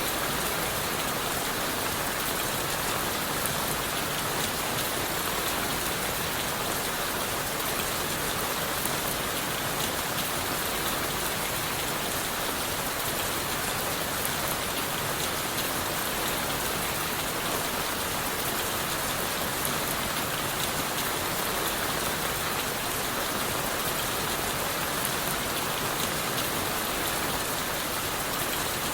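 Steady rain falling on leaves and the forest floor, an even, unbroken hiss with fine drop patter.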